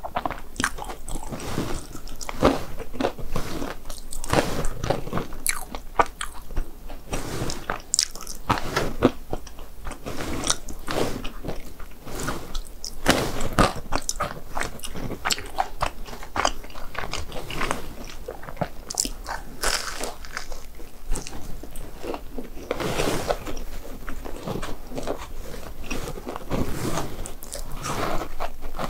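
Biting and chewing crunchy fried food, a dense irregular run of crisp crunches, several a second.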